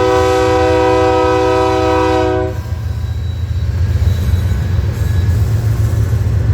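Locomotive air horn, a K3LA, sounding one held chord that cuts off abruptly about two and a half seconds in. After it, the low steady rumble of the diesel locomotives moving the train continues.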